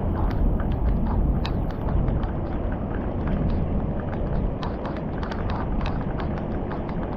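Floodwater rushing through a street culvert as debris is cleared, a steady low rumble with irregular splashes and clicks through it.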